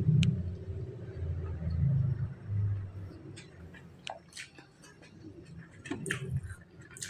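Someone eating by hand at close range: low chewing sounds with scattered small clicks and taps.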